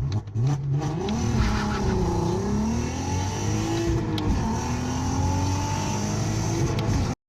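Audi A3 8P's engine under full-throttle acceleration, its pitch climbing and dropping back several times as it shifts up through the gears.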